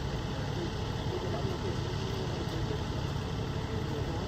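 A vehicle engine idling with a steady low rumble, under constant street noise and faint distant voices.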